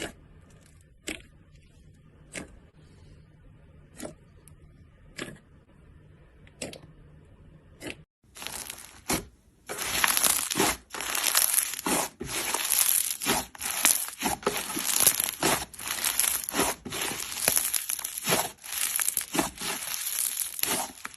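Slime being worked by hand, with sharp single pops about once every second or so. After a brief break at about 8 seconds, it gives way to loud, dense crackling and crunching.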